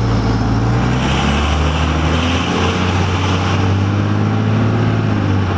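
Cummins turbo-diesel pickup engine running under load as the truck pulls away and drives down the road.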